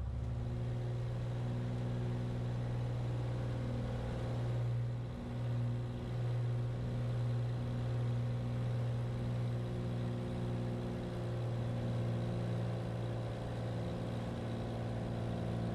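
Cessna 182's six-cylinder piston engine and propeller droning steadily in the cockpit, at an even pitch with a brief dip in level about five seconds in.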